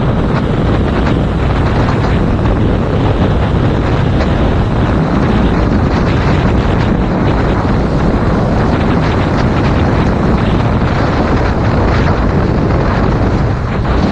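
Loud, steady wind noise buffeting a GoPro Hero 5 Black's microphone on a moving motorcycle, a 2019 Yamaha MT-07. It drowns out the engine.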